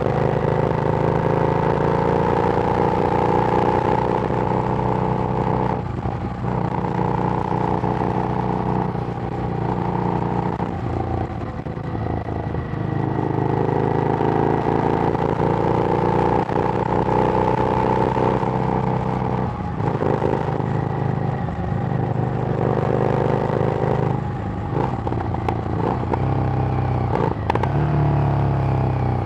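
Harley-Davidson Street Rod's 750 cc V-twin running through a Screamin' Eagle exhaust while riding, the engine note rising as it pulls through the gears and dropping off at each of several shifts. A few sharp clicks come near the end.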